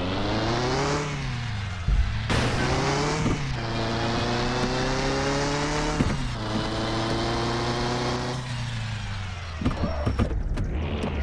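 Car engine accelerating through the gears: its pitch climbs, drops sharply at each shift, about two, three and a half and six seconds in, then climbs again. It dies away near the end, followed by a few short clicks.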